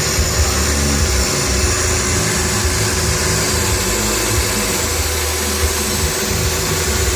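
Milling machine running as it plunge-cuts a knife pocket clip, under the steady hiss of the coolant misting system.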